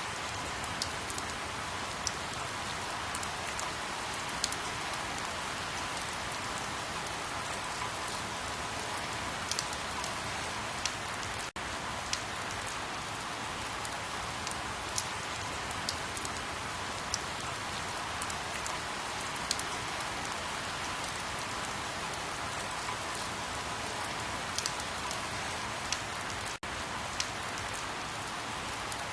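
Steady rain falling: an even hiss with scattered sharp clicks of single drops. The sound drops out for an instant twice, about a third of the way in and near the end.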